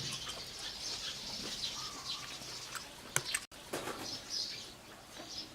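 Small birds chirping, many short high calls scattered throughout, with a few sharp clicks a little past the middle.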